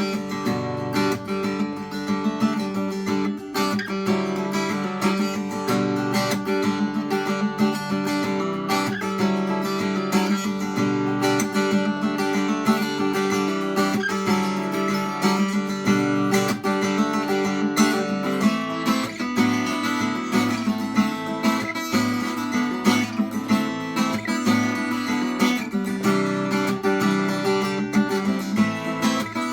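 Acoustic guitar strummed fast in a busy rhythmic pattern through a six-chord progression (C add9, D, G, D, A minor, B minor), with hammer-ons and percussive muted chops between the chords.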